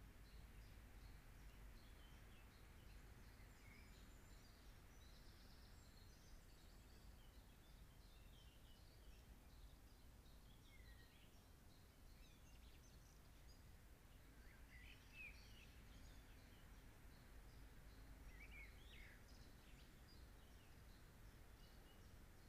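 Faint, distant birdsong: scattered short chirps and calls over a steady low background hiss, near silence overall.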